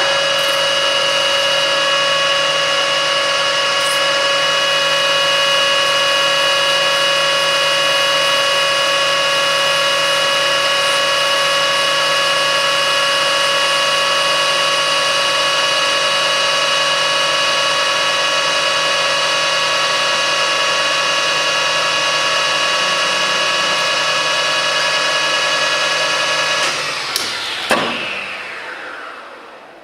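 Metal lathe running steadily with a high, even whine while a parting tool cuts off a section of the bar. Near the end the lathe is switched off and winds down, falling in pitch.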